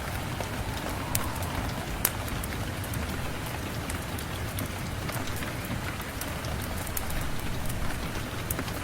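Steady rain falling, with a few sharp clicks and pops scattered through it.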